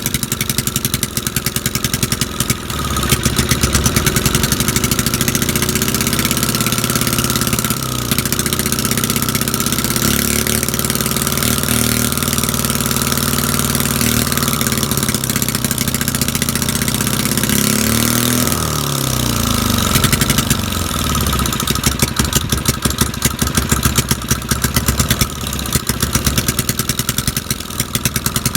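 Small pressure-washer engine running steadily, drawing smoke from weed trimmings through a hose into its carburetor. Its speed wanders, dipping and picking up again about two-thirds of the way through, then runs evenly.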